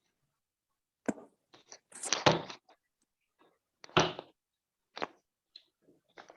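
A few scattered knocks and clatters, with the loudest bump about four seconds in and a cluster of rattling just before it.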